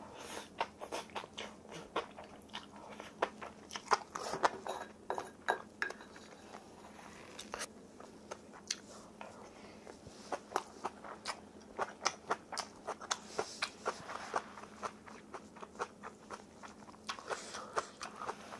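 Close-miked chewing of crunchy cheongsachae kelp-noodle salad: an irregular run of crisp crunches and mouth clicks, a few a second, loudest about four seconds in.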